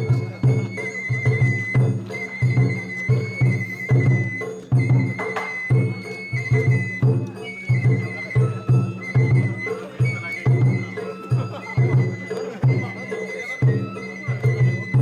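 Japanese festival hayashi music: a high bamboo flute playing a held melody that moves in small steps over steady taiko drum beats, about three a second.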